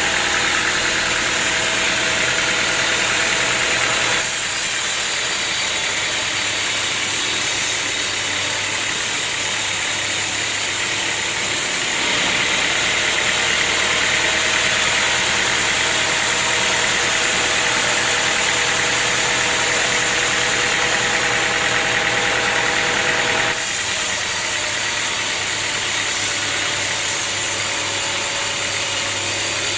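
Sawmill machinery running steadily, a constant mechanical noise with a steady hum. The sound changes abruptly about four, twelve and twenty-three seconds in.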